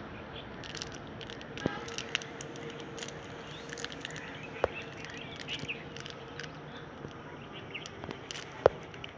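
Birds chirping in a tree, short scattered calls over steady outdoor background noise, with a few sharp clicks, the loudest near the end.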